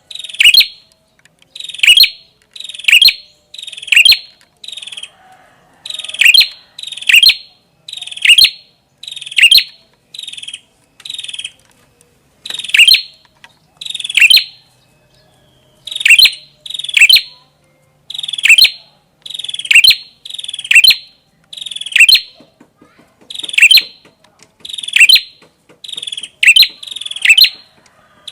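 A prenjak kepala merah (a prinia) singing non-stop: loud, sharp, quick notes that fall in pitch, repeated roughly once a second with a few brief pauses.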